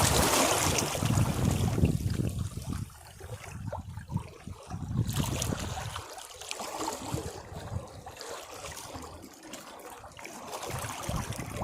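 Caribbean sea waves against rocks: a wave's wash fades over the first few seconds into water trickling and draining back among the rocks. The next surge starts to build near the end.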